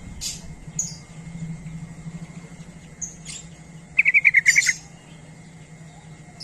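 Yellow-vented bulbul (trucuk) calling: a few short high chirps, then about four seconds in a quick run of about eight notes, the loudest part. A faint steady hum lies underneath.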